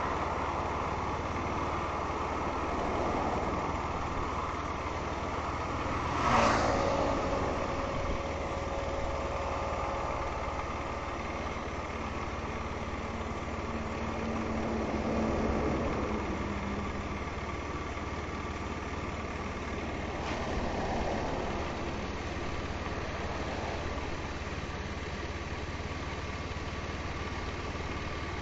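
Motorcycle engine running steadily during a road ride, with a sharp, loud swell about six seconds in and softer swells about halfway through and again a little later.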